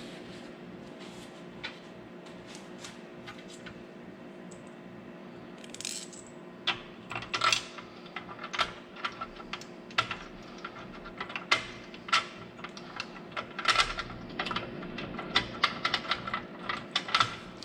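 Irregular sharp metallic clicks and taps, one or two a second, beginning about six seconds in: small metal hardware and tools being handled on an aluminum saw-stand rail, over a steady low hum.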